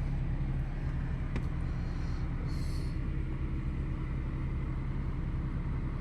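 Ford car engine idling steadily after a new spark plug and corrected plug wiring for a cylinder 2 misfire, with a short hiss about two and a half seconds in.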